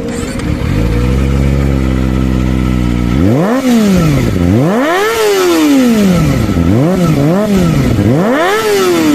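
Kawasaki Ninja ZX-25R's 250 cc inline-four engine idling steadily, then revved in about five quick blips from about three seconds in, each one rising sharply in pitch and falling back.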